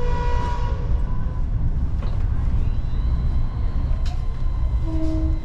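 Steady low rumble of the Lao–China Railway electric multiple unit running, heard from inside the passenger coach. A short steady tone sounds in the first second.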